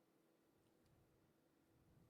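Near silence: faint room tone with a low steady hum, in a pause between speech.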